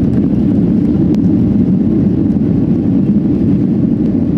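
Cabin noise of a Boeing 757-200 climbing out after takeoff: a steady roar from its two Rolls-Royce RB211-535E4 turbofans at high power and the airflow over the fuselage, heard from inside the cabin. A faint tick sounds about a second in.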